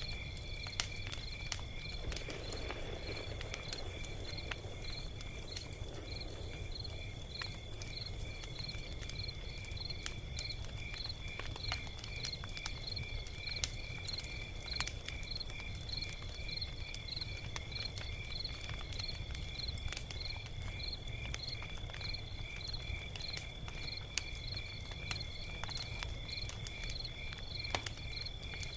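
Log fire crackling, with scattered sharp pops over a low rumble. A steady high-pitched chirp pulses about twice a second alongside it.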